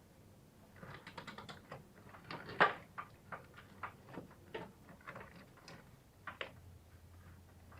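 Hands handling a wiring harness and its plastic loom: a run of irregular light clicks and rattles, with the loudest click about two and a half seconds in.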